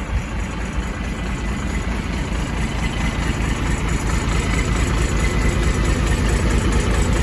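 Ford F600 dump truck's inline six-cylinder turbo diesel running steadily with the power take-off engaged to drive the dump-bed hydraulics, growing gradually louder.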